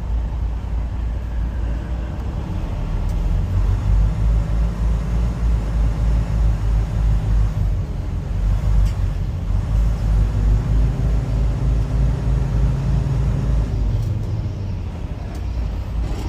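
Semi-truck's diesel engine running, heard from inside the cab as the truck drives in. It is a deep rumble that pulses rhythmically, strongest through the middle stretch.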